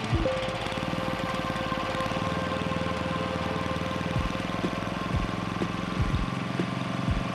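Robin EY-series single-cylinder four-stroke generator engine running steadily on a cheap aftermarket replacement carburetor, with a few short clicks along the way.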